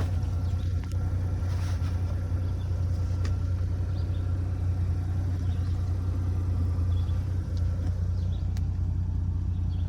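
1994 Mazda RX-7 FD's twin-turbo 13B twin-rotor rotary engine idling steadily with an even low hum as it warms up to operating temperature.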